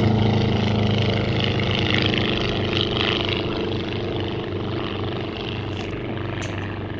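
Engine of a single-seat Rollason Turbulent light aircraft, a small air-cooled Volkswagen-based flat-four, running at display power as it passes, fading steadily as it flies away.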